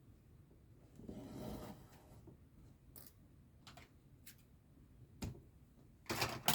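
Cross-stitch thread being drawn through fabric with a needle: a soft, drawn-out rasp about a second in, a few light ticks, and a louder rustle near the end.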